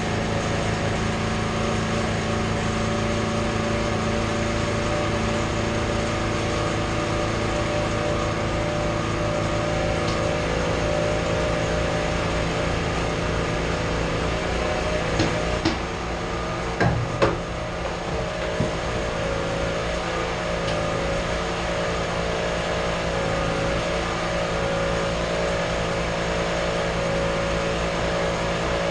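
A steady engine or motor hum, with a few short knocks about halfway through.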